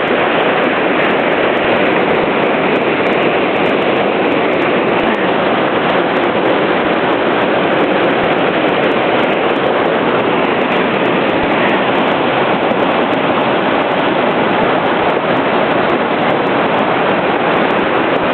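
Floodwater rushing through a river fish ladder: a loud, steady wash of turbulent water that does not change.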